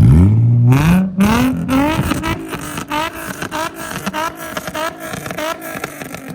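A car engine revving up from idle and accelerating hard, with a run of quick rising pulls and sharp crackles between them. It fades toward the end as the car moves off.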